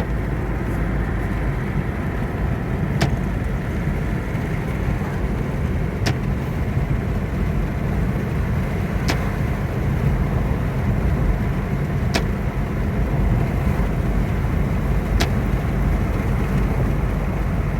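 Steady road and engine noise inside a moving car, with a short sharp click about every three seconds.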